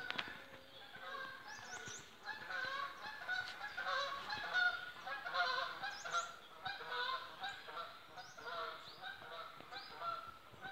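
A flock of geese honking, many overlapping calls that build up about a second and a half in, peak midway and then thin out.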